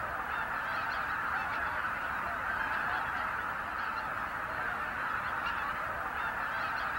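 A flock of greater white-fronted geese calling: a dense, steady chorus of many overlapping honks.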